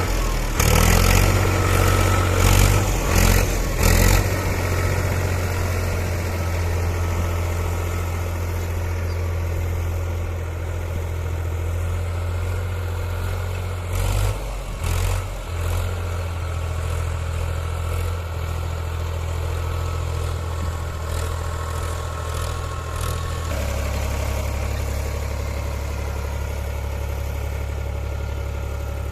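Powertrac Euro 47 tractor's diesel engine running steadily, with a few loud knocks about one to four seconds in and again around the middle. Late on, the engine note steps down and holds steady.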